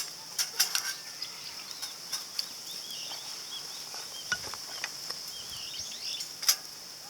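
Small wood fire crackling in a compact titanium fire grill, with sharp pops scattered through, the loudest about half a second in and near the end. Small birds chirp in the middle, over a steady high-pitched drone.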